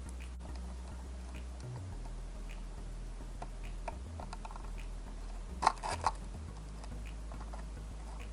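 Light clicks and taps from handling a small circuit board and photodiode during soldering work, with a quick cluster of louder clicks a little past halfway, over a steady low hum.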